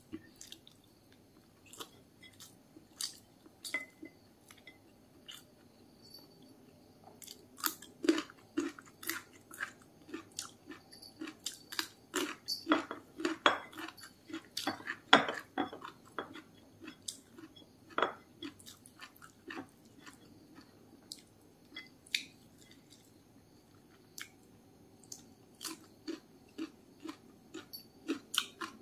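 Close-up chewing of a mouthful of rice, with wet mouth clicks and occasional crunches coming irregularly, busiest in the middle stretch.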